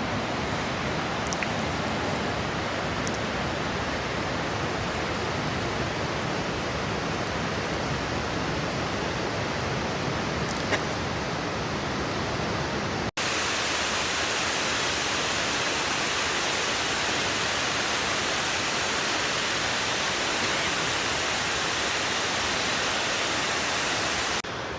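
Waterfall and river rushing: a steady hiss of falling water. It cuts out for an instant about halfway through and comes back a little brighter.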